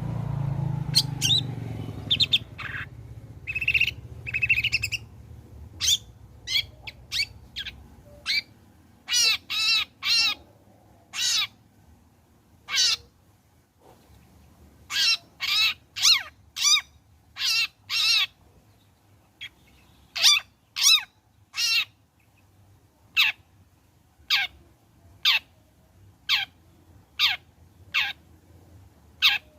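Long-tailed shrike giving a long series of short, harsh calls, one every half second to a second, some rasping and others sharper and higher. A low rumble underneath fades away over the first few seconds.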